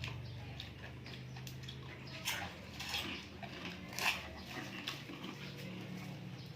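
Person eating sea grapes with sambal and crackers close to the microphone: chewing, with three short, louder crunchy bites about two, three and four seconds in, over a steady low hum.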